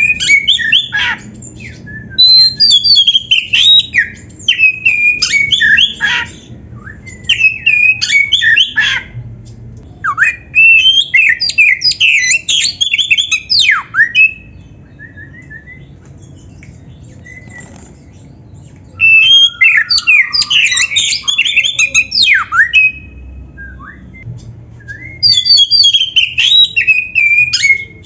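Oriental magpie-robin (kacer) singing loud, rapid, varied whistled phrases with quick up-and-down glides, in about six bouts of a few seconds each separated by short pauses, the longest pause near the middle.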